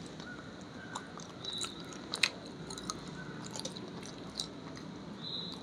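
A person chewing and eating close to the microphone: scattered small wet clicks and mouth smacks, the sharpest about two seconds in.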